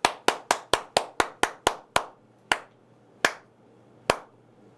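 Hand claps: a quick, even run of about four claps a second for the first two seconds, then three slower, scattered claps, given as mock applause or congratulations.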